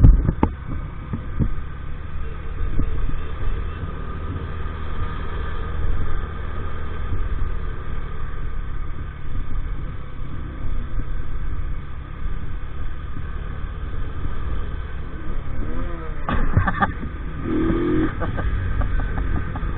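50cc moped engine running steadily under way, with a constant low rumble. A few short wavering calls or voices come in about three-quarters of the way through.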